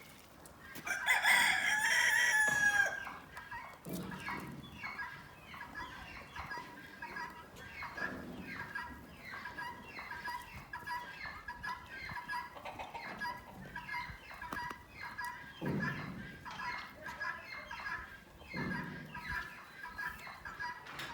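A rooster crows once about a second in, then chickens cluck and call continually, with a few lower calls here and there.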